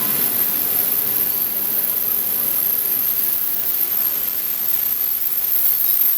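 Passenger train rolling past: a steady rushing noise of wheels on rail, with no distinct tones.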